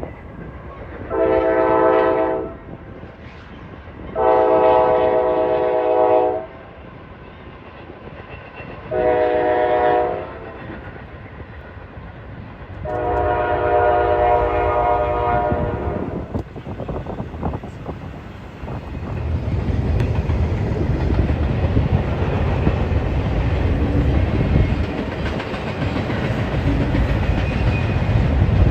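Locomotive air horn sounding the grade-crossing signal, long, long, short, long, as a train approaches. About 19 s in, the rumble of the passing train and its wheels on the rails comes up and holds steady.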